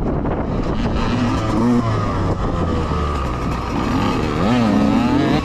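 Mini dirt bike engines revving up and down as bikes ride by, with a low steady engine drone underneath and a fresh run of rising and falling revs in the last second or two.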